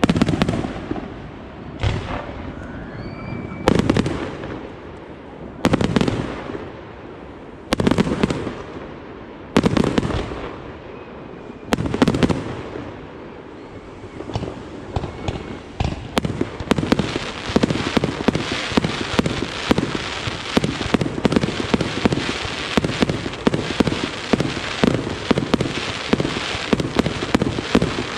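Fireworks display: heavy bangs from aerial shells about every two seconds, each trailing off. About halfway through this gives way to a dense, rapid barrage of bangs and crackling that keeps going.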